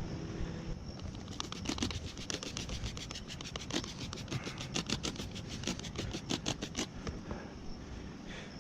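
Rapid, rhythmic scrubbing strokes, about five or six a second, as a long-neglected part inside a car door is cleaned. They start about a second in and stop near the end.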